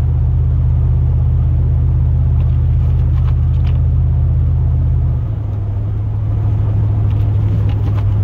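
Plow truck's engine and drivetrain droning steadily, heard from inside the cab while driving. About five seconds in the low note drops a little lower and quieter, as the engine eases off.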